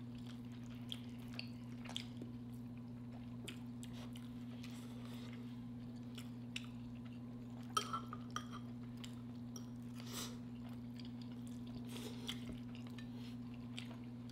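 Faint close-up eating sounds: chewing, with scattered light clicks of forks on glass dishes, over a steady low electrical-sounding hum.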